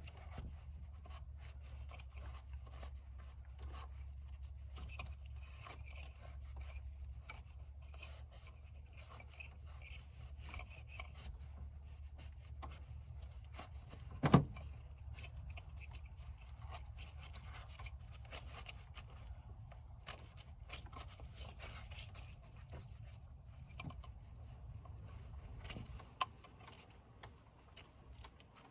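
Scattered small scrapes, rubs and clicks of hand work, with one sharp loud knock about halfway through and a smaller one near the end, over a steady low hum.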